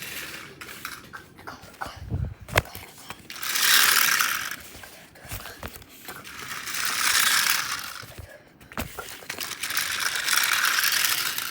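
Toy train running along its track: a rattling mechanical whir that swells and fades three times, about three seconds apart, with scattered clicks in between.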